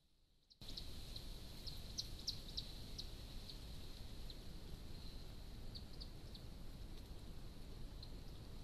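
Faint, short, high bird chirps, a dozen or so scattered irregularly and most frequent in the first three seconds, over a steady hiss and a thin steady high tone.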